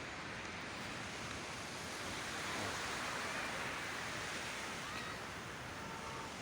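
Sea waves washing on the water, with some wind on the microphone; the wash swells a little about halfway through.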